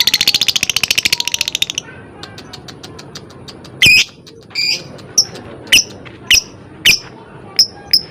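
Lovebird calling: a rapid, rattling chatter of sharp clicks (the 'ngekek' trill keepers prize) that stops about two seconds in, followed by single shrill chirps about every half second, then fast even ticking near the end.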